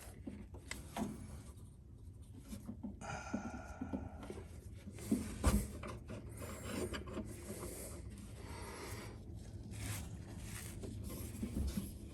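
Handling noise of hand tools and a copper fuel line being worked into a fuel-tank fitting: scattered light knocks, scrapes and rubbing, with a louder knock about five and a half seconds in.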